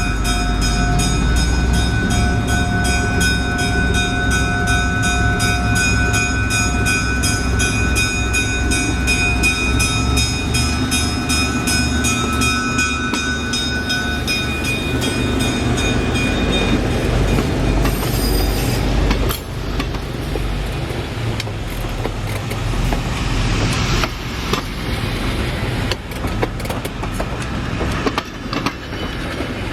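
A train running on the track, with a steady rapid clatter and several steady high tones through the first half, then a rougher, noisier rumble from a little past the middle on.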